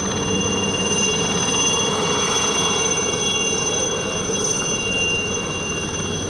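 IAR-316 (licence-built Alouette III) helicopters flying by, their Turbomeca Artouste turboshafts giving a steady high-pitched turbine whine of several tones over a rushing rotor and engine noise.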